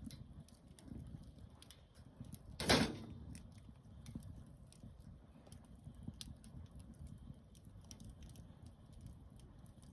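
Campfire crackling: scattered small pops over a low rumble, with one much louder crack nearly three seconds in.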